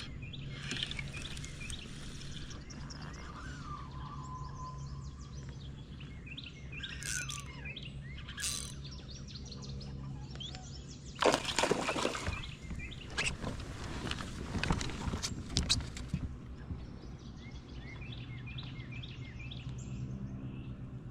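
Birds chirping and singing over a low steady background, with a cluster of louder noisy bursts from about halfway through that last several seconds.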